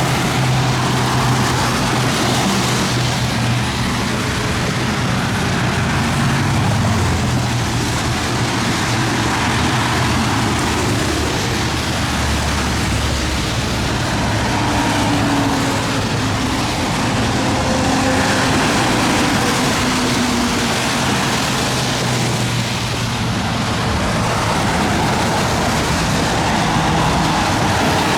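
Steady road traffic noise: passing vehicles' tyre noise with a low engine hum that shifts in pitch now and then.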